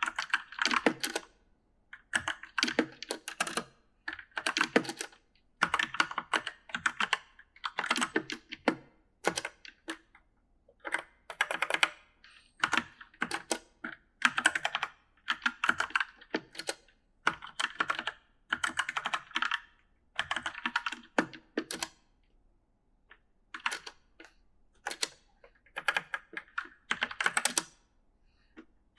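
Typing on an E-Element mechanical gaming keyboard: rapid clattering keystrokes in runs of about a second with brief pauses between, and one longer pause about three quarters of the way through.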